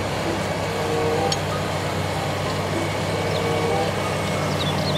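Crawler bulldozer working, its diesel engine running steadily as it pushes dirt with its blade.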